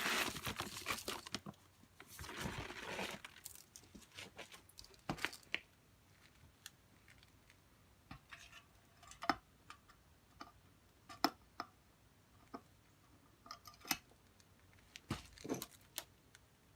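Rustling and crunching for about the first three seconds, then scattered small clicks and knocks at irregular intervals, a couple louder near the end: handling noise from fumbling with a phone held in one hand.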